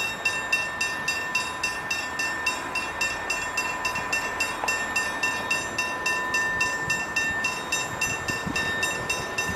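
Level crossing warning bells, Westinghouse hybrid bells, ringing with rapid, evenly spaced strokes over a steady ringing tone: the crossing's warning that a metro train is approaching.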